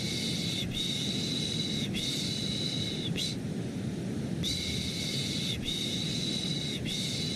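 Rhythmic baby-soothing shushing ("shh, shh, shh"), each shush about a second long, coming in runs of three. One run ends about three seconds in, and the next starts after a pause of a little over a second. Under it runs a steady, deep rushing white-noise bed.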